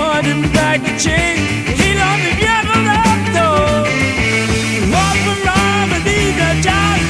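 Psychedelic rock music in an instrumental stretch: a lead line with bending, gliding notes over a steady bass and drums.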